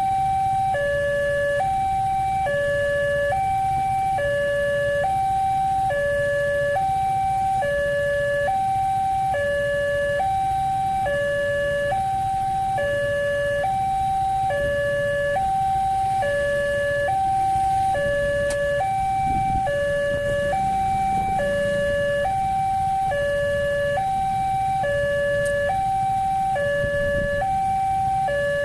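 Railway level-crossing warning alarm sounding its steady two-tone signal, alternating evenly between a higher and a lower tone, each held a little under a second, over a low rumble.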